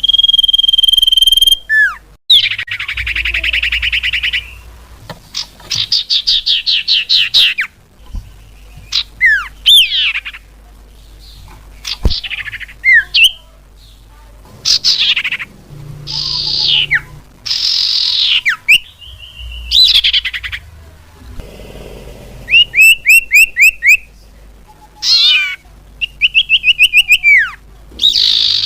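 Bird-lure recording of common iora (cipoh/sirtu) calls, played loud: a fast sequence of varied notes that includes a held whistle, buzzy trills, rapid rattling runs and sharply falling whistled slurs.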